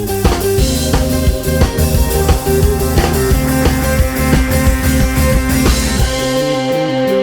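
Band music with a drum kit, bass and guitar. About six seconds in, the drums and bass drop out, leaving the guitar and sustained tones.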